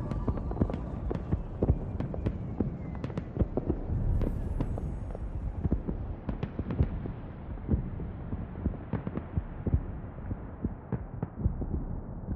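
Irregular crackling pops and clicks over a low rumble and hiss, the hiss gradually growing duller.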